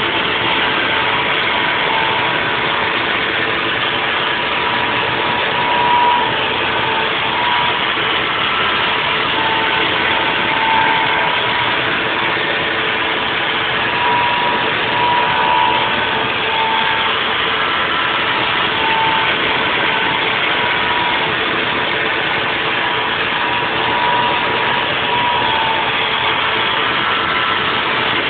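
Haas VF4 vertical CNC mill running a 3D cutting pass: steady machine noise, with a whine near 1 kHz from the spindle and cutter that swells and fades every second or two as the tool moves along its path.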